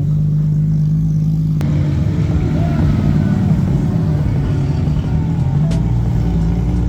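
Car engines running, with music playing.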